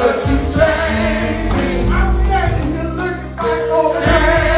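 Gospel music: a choir singing over a band with steady percussion.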